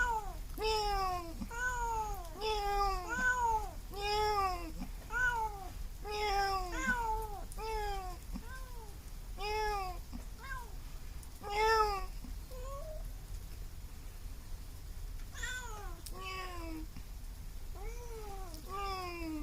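A cat meowing over and over, each meow rising then falling in pitch, about one or two a second. The loudest meow comes a little past halfway, then a pause of a couple of seconds before the meowing starts again.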